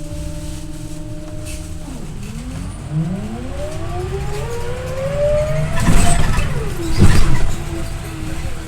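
Scania OmniLink I city bus heard from inside the cabin: the engine holds a steady note, then about two seconds in its pitch climbs as the bus pulls away and accelerates. Two loud bangs come about six and seven seconds in, and the engine settles to a steadier note near the end.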